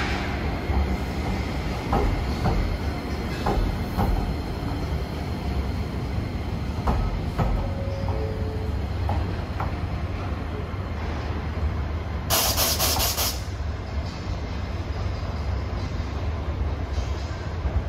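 Train noise: a steady low rumble with scattered clicks and knocks, and two short tones about eight seconds in. About twelve seconds in comes a loud burst of hissing compressed air, about a second long.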